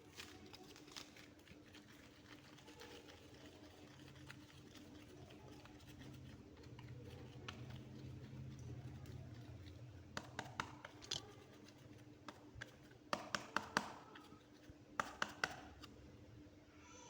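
Soft clay being pressed and squished by hand, with faint sticky handling sounds, then several quick clusters of sharp little clicks and pops in the second half.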